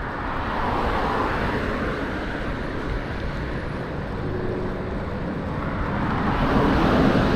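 Road traffic: cars passing, their noise swelling and fading about a second in and again near the end.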